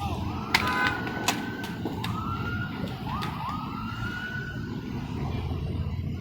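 Emergency vehicle siren wailing, rising and falling about three times and fading out after about four seconds, over low traffic rumble.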